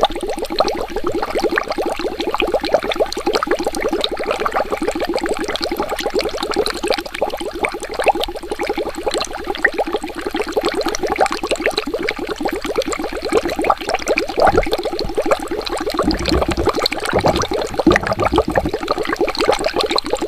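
Water bubbling without a break, a fast dense stream of small bubbles popping, with a few deeper gurgles about two-thirds of the way through.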